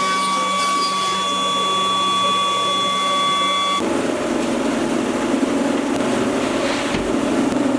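Power tool running with a steady high whine, typical of a CNC wood router's spindle; about halfway through the whine gives way to a rougher, grittier noise of a tool working on wood.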